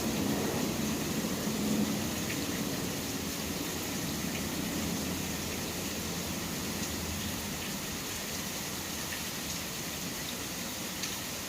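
Steady rain falling, with a few scattered drop ticks. A low rumble of city traffic fades out over the first couple of seconds.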